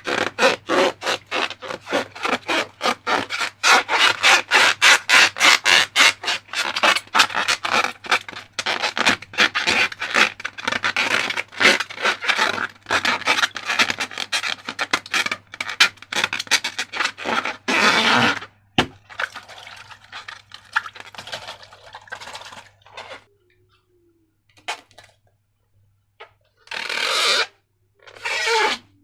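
Slime being stirred and scraped in a container: quick, rhythmic scraping and rubbing strokes several times a second. After a while they slow to a few separate scrapes with a short pause.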